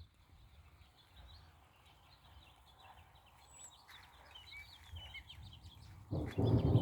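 Faint bird chirps over quiet rain-soaked air, then near the end the low rumble of thunder from a nearby lightning strike breaks in suddenly and grows louder.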